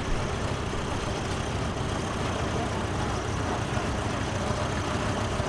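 Antique tractor engines running steadily, a continuous low rumble.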